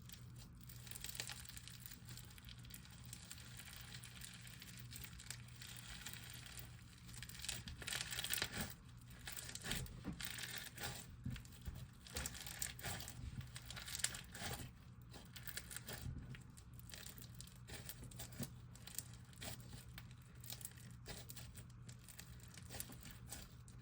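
Bingsu-based slime being squished and stretched by hand, giving faint, irregular crackling and crunching from the bingsu beads, busiest in the middle stretch.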